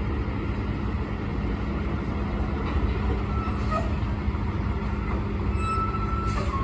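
Heavy diesel truck engine running steadily with a low rumble, with a brief hiss about six seconds in.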